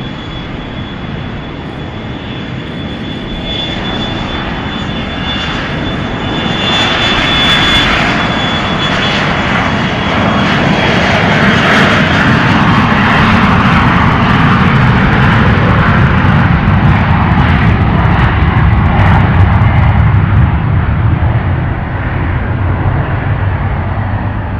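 Airliner's engines running loud as the aircraft passes close, with a high whine that has just risen and then holds steady. The noise builds to a peak a little past halfway and then begins to fade.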